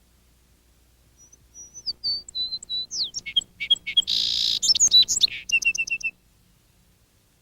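A songbird singing one long, varied song of whistled notes and quick slurs with a buzzy note in the middle, ending in about five quick repeated notes.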